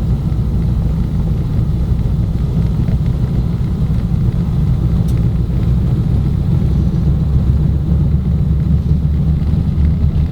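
Steady low rumble of the Junkers Ju 52's three radial engines, heard from inside the cabin as the aircraft taxis after landing.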